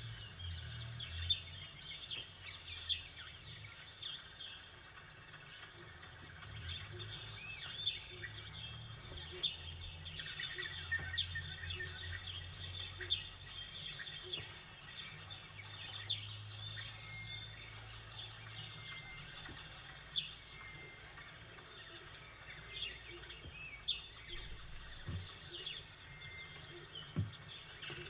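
Small birds chirping and twittering many times over, over a low, steady background rumble.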